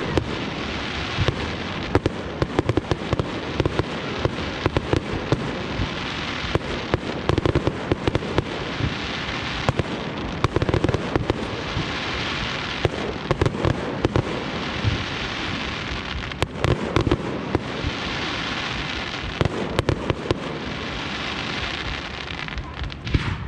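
Fireworks display in full flow: a continuous crackle and hiss of bursting shells, swelling every couple of seconds, with many sharp bangs throughout.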